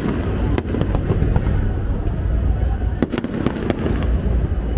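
Fireworks going off: a continuous deep rumble of booms with sharp cracks, a cluster of them about three seconds in.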